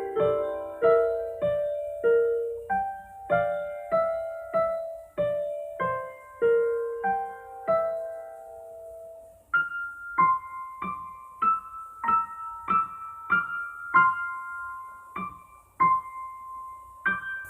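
Slow solo piano music, single notes and chords struck and left to fade. After a short pause about halfway through, it moves up to higher notes.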